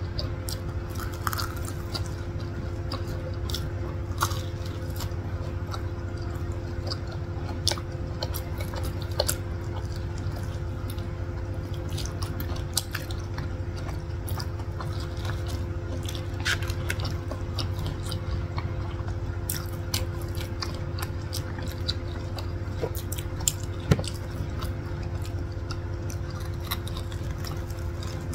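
Close-miked chewing of crispy fried corn dogs by two people, with irregular small crunches and mouth clicks. A steady low hum runs underneath.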